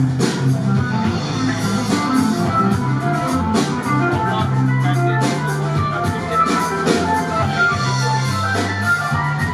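Anatolian rock band playing an instrumental passage live, with organ, guitar, a sustained bass line and drums with cymbal strikes.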